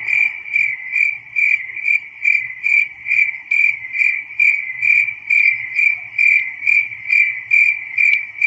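Crickets chirping in a steady, even rhythm, a little over two chirps a second.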